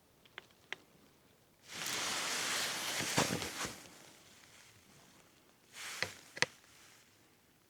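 Rustling noise lasting about two seconds, with a few sharp clicks in it, then a shorter rustle with two sharp clicks about six seconds in; a couple of faint clicks come before.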